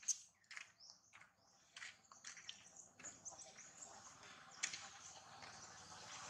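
Faint, scattered short high chirps of small birds, with a few ticks and one sharp click about two-thirds of the way through.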